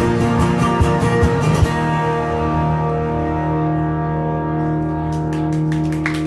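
Guitar playing the last notes of a song, then a final chord held and ringing out. A few sharp clicks come near the end.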